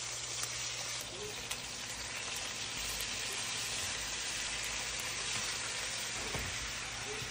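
Chicken pieces sizzling steadily as they fry in oil in a pan, with a few light clicks of metal tongs against the pan as the pieces are turned.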